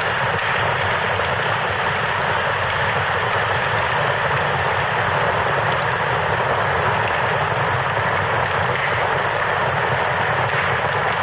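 A river's steady rushing water with the faint crackle of a campfire over it.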